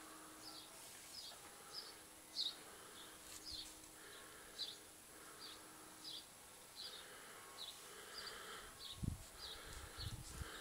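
A small bird chirping over and over, short high chirps about twice a second, faint, with a few low thumps near the end.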